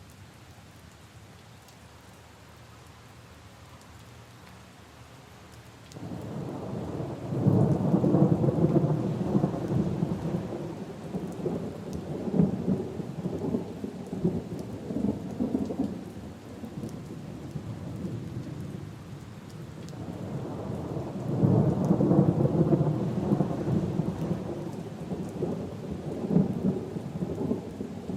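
Steady rain falling, then about six seconds in a long, low roll of thunder starts suddenly and rumbles for over ten seconds before easing; a second roll of thunder swells about twenty seconds in and is still going at the end.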